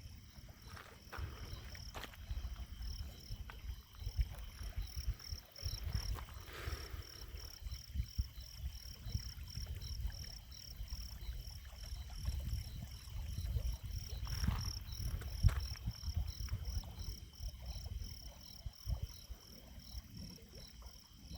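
Night insects calling in a steady chorus of evenly pulsed high chirps, about two to three a second, over an uneven low rumble.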